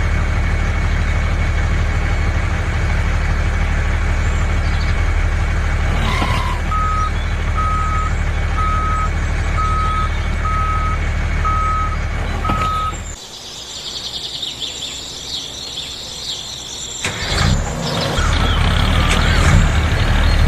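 Heavy truck engine running steadily while a reversing alarm beeps seven times, about once a second. The engine sound then cuts off suddenly, leaving a higher-pitched noise for a few seconds, before a low engine sound returns near the end.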